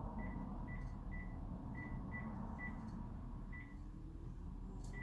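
Short high beeps from a phone keypad as keys are pressed, about two a second and unevenly spaced, over a low background hum.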